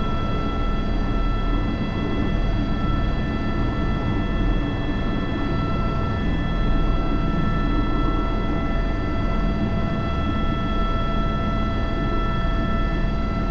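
Airbus H125 helicopter heard from the cockpit in flight: a steady high turbine whine of several fixed tones over a low rotor rumble.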